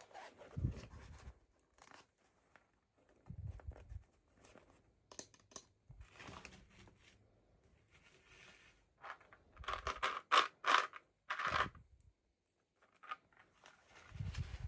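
Toy packaging being handled and opened by hand: irregular crinkling, tearing and rustling of plastic and paper, loudest in a run of rustles about ten to twelve seconds in.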